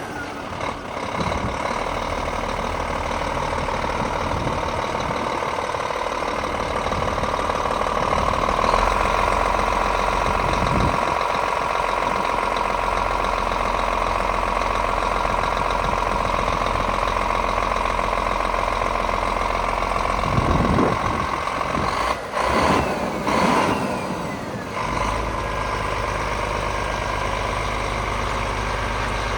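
Scania R440 truck's 13-litre straight-six diesel running steadily at idle, with a few brief louder sounds about three quarters of the way through.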